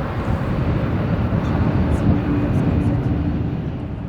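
Jet airliner engines running, a loud steady rumble with a steady humming tone over it.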